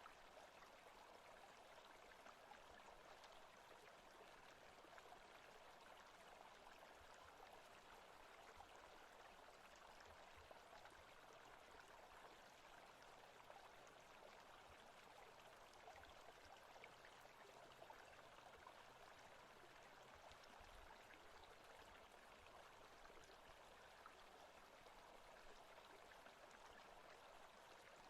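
Faint, steady forest ambience sound: an even rushing hiss, like running water, with no distinct events.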